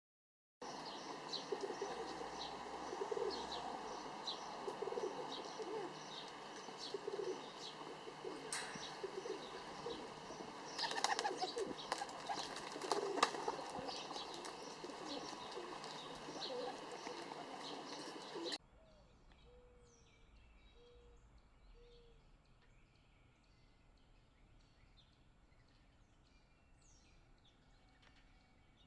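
Pigeons cooing, with small birds chirping over them in a rapidly repeated high note. A burst of wing flapping comes about eleven to thirteen seconds in. About eighteen seconds in, the sound cuts suddenly to a much quieter passage of faint bird chirps.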